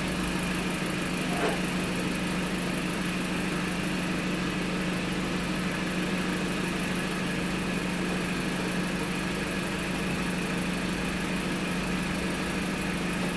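Car engine idling steadily, a newly installed replacement engine running with an even hum that holds one pitch. There is one faint tick about a second and a half in.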